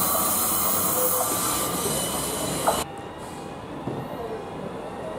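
Pacer diesel railbus running through the station, with steady wheel and engine noise and a few short wheel squeals, the last one sharp. About three seconds in the sound cuts abruptly to a quieter, more distant rumble as a Class 158 diesel multiple unit approaches.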